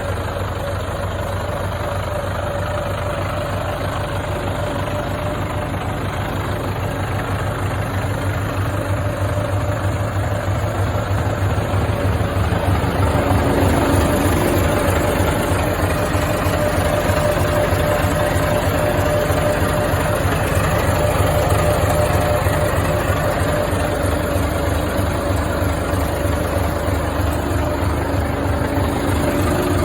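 Scania 143 truck's V8 diesel engine running with a steady low, even beat, growing a little louder about thirteen seconds in.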